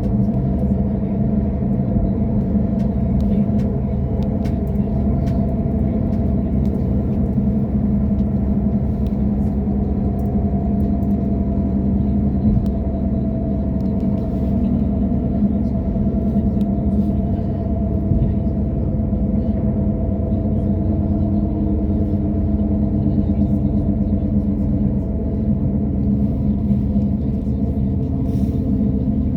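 Passenger train running, heard from inside the carriage: a steady rumble with a low hum whose pitch drifts slowly, and faint scattered ticks on top.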